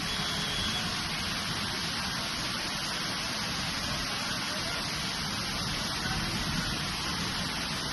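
Steady rushing noise of heavy rain and floodwater.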